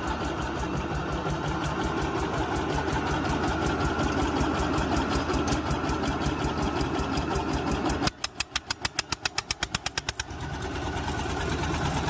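Tractor diesel engine idling steadily with an even beat. About two-thirds of the way through, the sound thins for a couple of seconds to separate, evenly spaced pulses, about seven a second, then fills back in to the steady idle.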